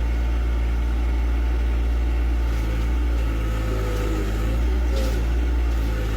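John Deere tractor engine running steadily, a low even hum with slight changes in its note partway through and a faint click about five seconds in.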